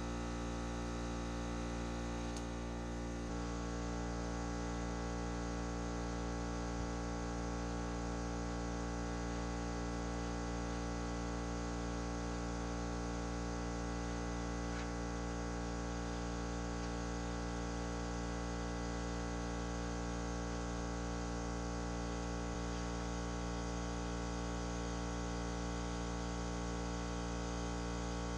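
A motor running at a steady, constant speed, giving an unchanging buzzing drone.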